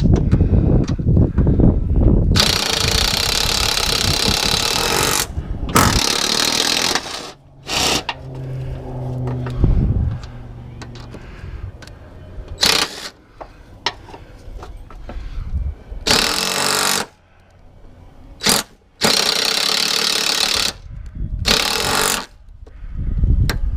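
Pneumatic tool, such as an air impact wrench or air hammer, working on a stuck mower deck spindle. It opens with about two seconds of rapid hammering, then runs in several bursts with its air exhaust hissing, and there is a short low hum near the middle.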